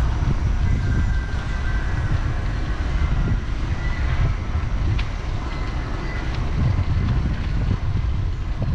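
Wind buffeting the camera's microphone while riding, a steady low rumble that rises and falls, mixed with road noise.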